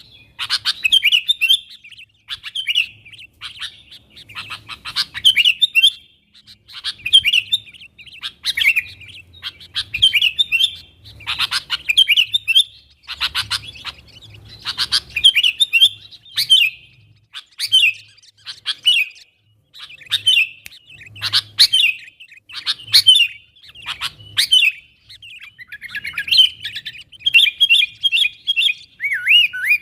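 Sooty-headed bulbul (kutilang) calling in short, repeated chirping phrases, one every second or two, busier near the end.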